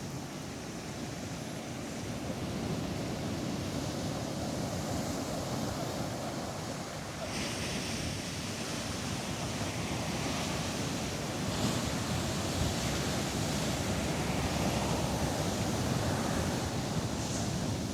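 Ocean surf washing and breaking continuously on the beach, with wind buffeting the microphone.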